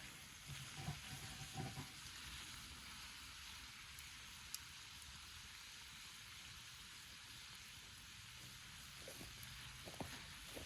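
Lamb sizzling as it cooks over a campfire: a steady, faint frying hiss. A few faint low sounds come about a second in and again near the end.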